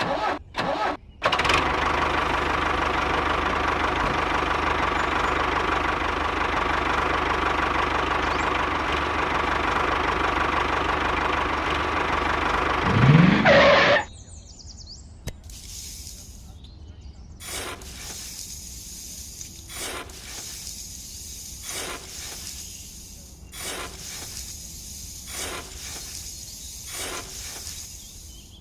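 A small motor or engine runs steadily for about twelve seconds, rises briefly in pitch, then cuts off. It is followed by a series of sharp taps or knocks, about one every second and a half to two seconds.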